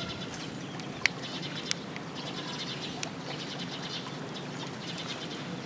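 Eastern spot-billed duck ducklings peeping: rapid series of short, high calls over the background noise, with a sharp click about a second in and a smaller one just after.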